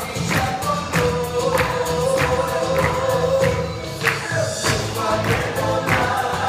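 A band playing, with several voices singing a held melody over a steady drum beat.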